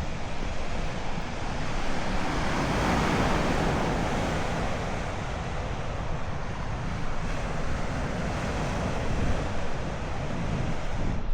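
Ocean surf washing on the shore, a steady rush that swells about two to four seconds in, with wind buffeting the microphone.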